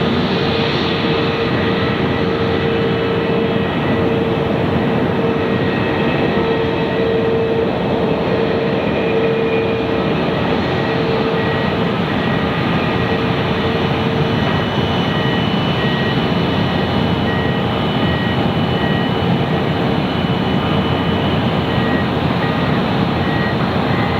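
Jet airliner engines running, a steady loud rush with a steady hum that fades out about halfway through.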